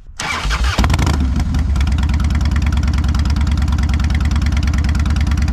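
Harley-Davidson motorcycle's V-twin engine starting a fraction of a second in, its first start of the morning after sitting overnight, then settling into a steady idle with an even pulse.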